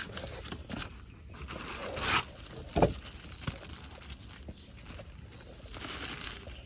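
Handling noises during a cabin air filter change: rustling that swells up to about two seconds in, then a sharp knock a little later and a lighter click, with more rustling near the end.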